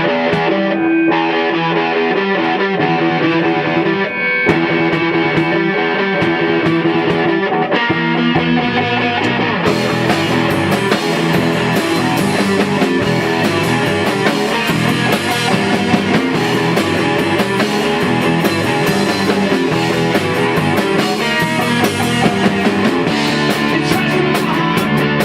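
Rock band playing live: distorted electric guitar, with the full drum kit and cymbals coming in about ten seconds in and the whole band playing on together.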